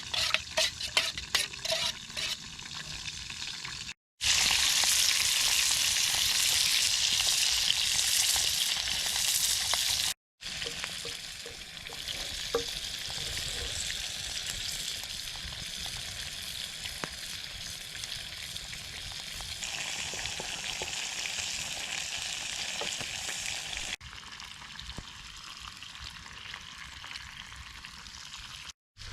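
Pork chops frying, sizzling steadily in several short cuts, loudest in the second. In the first couple of seconds a utensil clicks repeatedly as the food is stirred.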